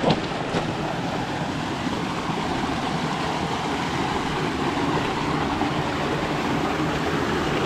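Stream water rushing steadily over rocks below a waterfall, with a brief knock right at the start.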